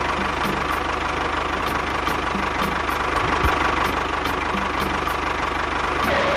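Engine running steadily at idle, with a faint steady whine, then cutting off abruptly at the end.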